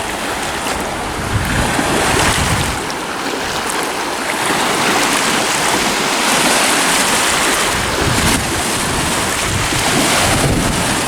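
Small lake waves washing onto the shore, with wind buffeting the microphone in uneven low rumbles.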